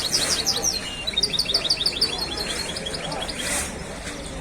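Caged songbirds singing: two fast runs of high, repeated chirps in the first three seconds, then scattered single chirps.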